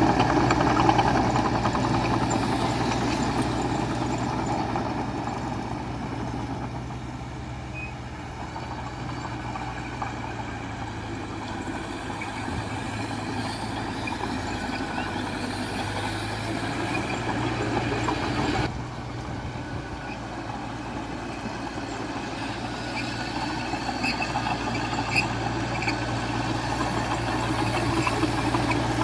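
Diesel engines of a small bulldozer and a dump truck running steadily at work. The sound fades over the first several seconds, builds again, drops suddenly about two-thirds of the way through, then grows louder toward the end.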